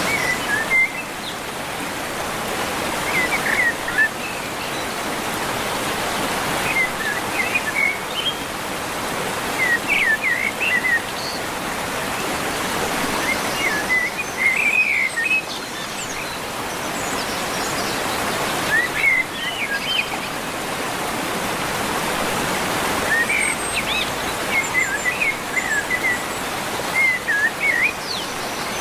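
A songbird singing short chirping phrases every three to five seconds over a steady rushing background noise.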